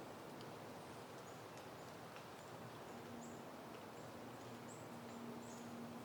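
Soft steady wind rushing through foliage, faint throughout. Brief faint high chirps come several times in the second half, and a faint low steady hum joins about halfway through.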